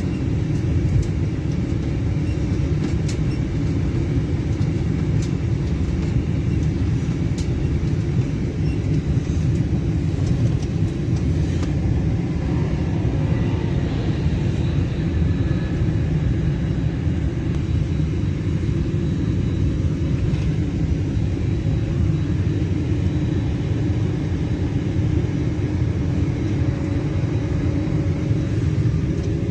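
Antonov An-225's six turbofan engines at takeoff power, a steady low rumble that holds level throughout.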